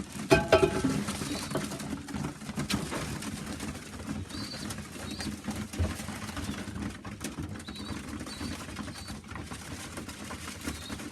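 Young pigeons in a loft cooing, with a steady low murmur, many sharp clicks of beaks pecking at feed, and a few short, high squeaks. A louder call comes about half a second in.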